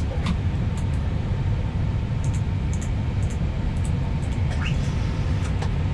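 Airbus A320neo cockpit noise while taxiing, with the engines at idle: a steady low rumble.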